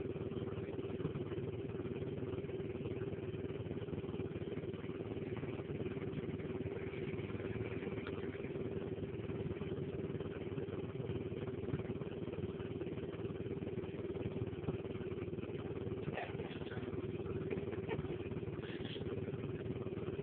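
Small dirt bike engine idling steadily, holding an even pitch with no revving.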